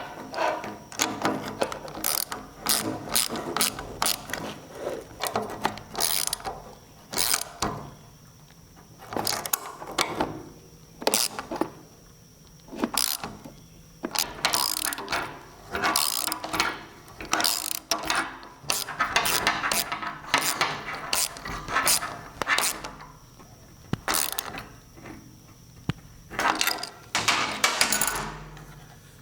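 Hand ratchet wrench clicking in short repeated bursts with brief pauses, as bolts are worked on the truck.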